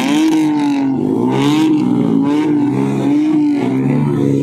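Vehicle engine revving repeatedly, its pitch rising and falling in quick blips.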